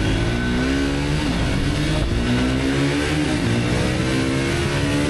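Triumph 400's single-cylinder engine pulling hard through the gears: its pitch climbs steadily and drops at an upshift a little over a second in and again about three and a half seconds in, then climbs once more.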